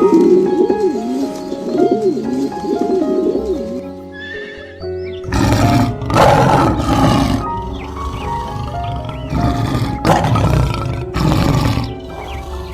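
Background music with animal calls mixed over it: a wavering call in the first few seconds, then from about five seconds in a series of loud, harsh calls about a second apart.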